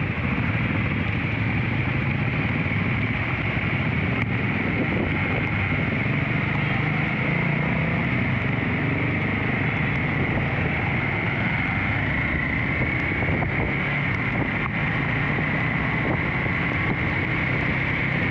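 Motorcycle riding at a steady speed: engine running evenly under wind noise on the microphone.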